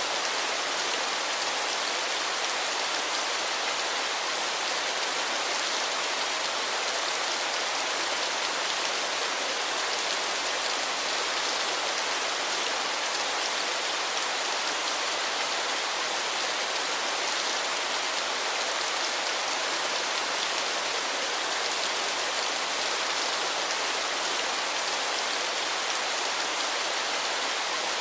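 Waterfall: a steady, even rush of falling water, a constant hiss-like roar without breaks or single splashes.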